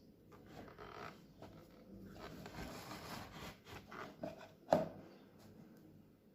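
Faint scraping and rubbing as the parts of a dismantled LED bulb are handled, with scattered light ticks and one sharp knock about three-quarters of the way through.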